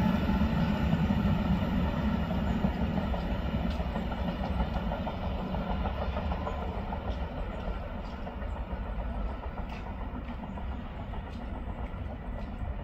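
Trenord TSR double-deck electric suburban train pulling away, its low rumble and wheel noise slowly fading as it recedes down the line.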